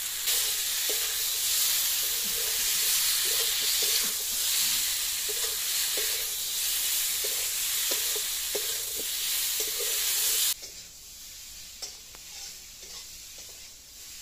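Pointed gourd pieces and freshly added ground spices sizzling in oil in a metal kadai, while a flat metal spatula stirs and scrapes the pan with short repeated strokes. About ten seconds in the sizzle drops away abruptly, leaving only faint scrapes and taps.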